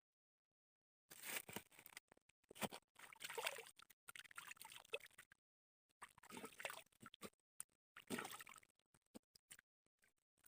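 Water splashing and trickling in irregular spurts, with short gaps between them.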